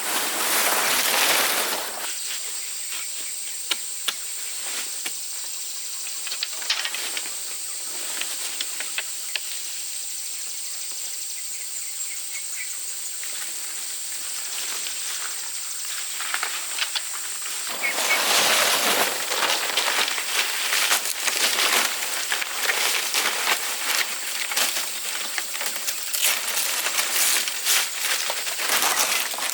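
Rustling, crackling noise full of small clicks, loud for the first couple of seconds and again through the last third. In the quieter middle stretch a steady high-pitched hiss stands out.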